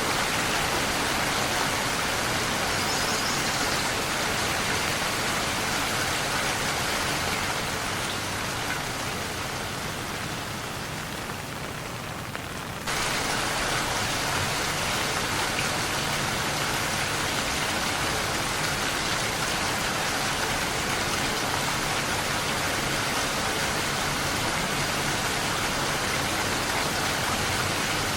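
Steady, heavy rain falling on surfaces, an even hiss across the whole range. It eases off somewhat over a few seconds, then comes back at full strength suddenly about 13 seconds in.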